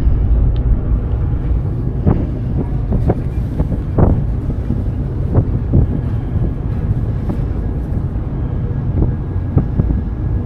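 Steady low rumble of a car ferry under way, with wind on the microphone and several short knocks scattered through it.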